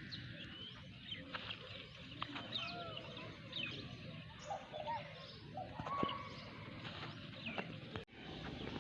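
Several birds chirping and calling over one another, with many short chirps and a few rising-and-falling whistled calls, over a steady low background rumble. The sound drops out suddenly for a moment near the end.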